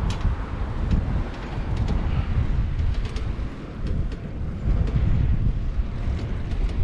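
Wind buffeting an action camera's microphone while cycling, a heavy, uneven low rumble, with a few faint ticks.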